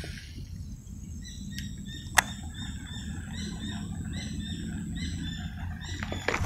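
A bird singing a quick series of short chirps for a few seconds over a thin steady high tone. A single sharp click about two seconds in is the loudest thing, and a burst of clicks and rustling comes near the end.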